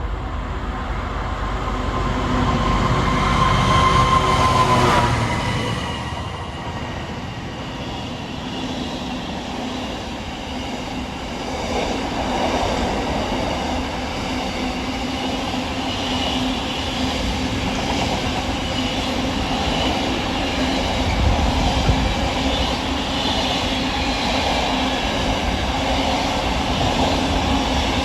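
A DRS intermodal container freight train passing close by. The locomotive is loudest about four to five seconds in, with a steady high tone that drops in pitch as it goes by. A long rake of container wagons follows, rumbling and clicking over the rail joints.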